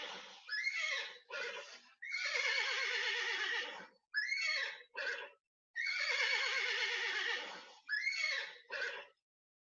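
Horse whinnying, the same recording played three times over: each time a long quavering whinny followed by two short calls.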